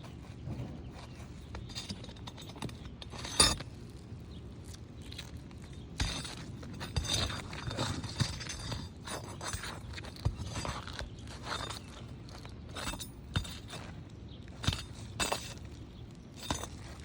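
Scattered scrapes, clicks and knocks of hand work on an asphalt shingle roof during a shingle repair, with one sharp knock about three and a half seconds in and a busier run of scraping and tapping in the middle.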